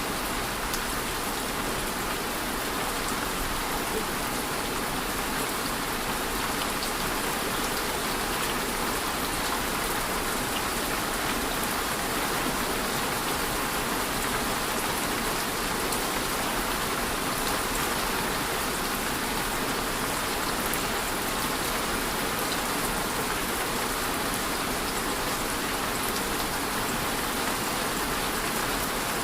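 Steady rainfall, an even hiss of rain with individual drops ticking on surfaces.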